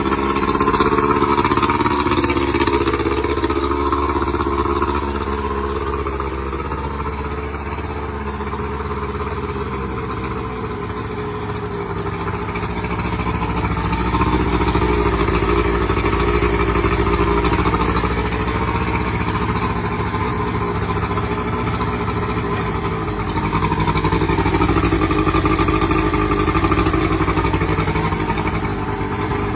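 60 hp Johnson outboard motor running steadily. It grows louder and quieter a few times over the stretch.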